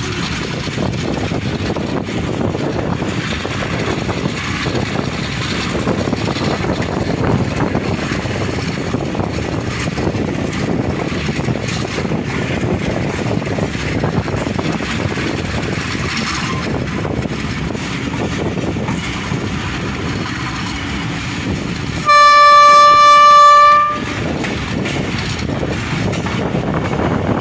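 Passenger train running, heard from an open coach doorway: a steady rumble and rush of wheels on rail and air. About two thirds of the way through, the locomotive horn gives one loud, steady blast of about two seconds.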